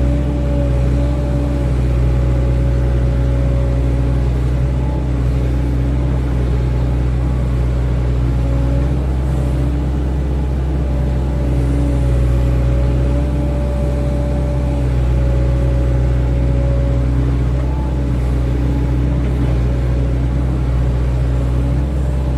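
Excavator's diesel engine running steadily at working speed, a loud continuous drone with a steady hum over it that wavers slightly in pitch.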